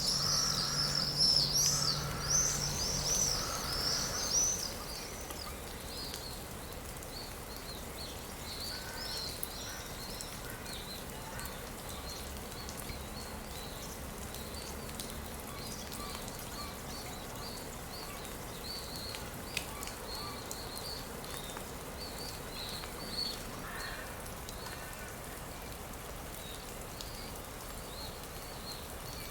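Birds singing over a steady background hiss: a loud, rapid, repeated high song for the first few seconds, then fainter scattered chirps.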